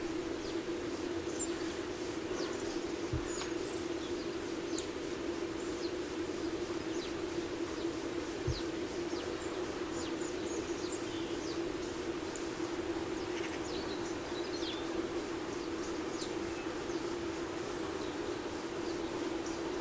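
Small birds giving short, scattered high-pitched chirps over a steady low hum.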